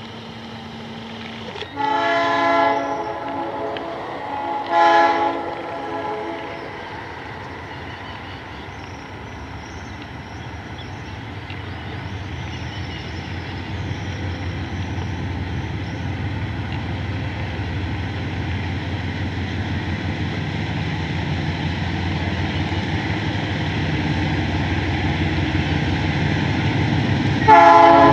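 Diesel freight locomotive's horn sounding two blasts a few seconds apart, followed by the low rumble of the approaching train growing steadily louder, and another loud horn blast near the end.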